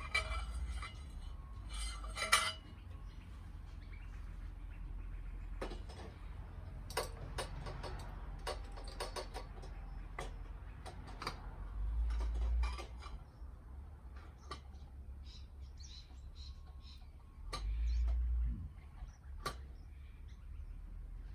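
Metal clinking and clicking as stainless exhaust header pipes are worked into place on a motorcycle engine, with a sharper clink about two seconds in and a couple of dull low thumps later on.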